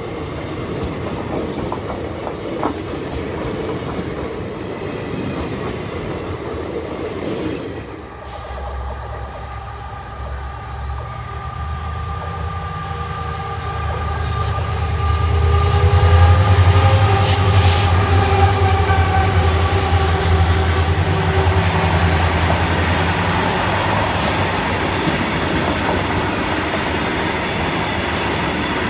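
Indian Railways passenger coaches rolling past with a steady clatter of wheels on rail. About a quarter of the way in, a pair of WDG4 (EMD GT46MAC) diesel locomotives with two-stroke 16-cylinder engines drone past at the head of a freight train, loudest around the middle. A long, steady, high-pitched squeal of wheels goes on as the wagons roll by.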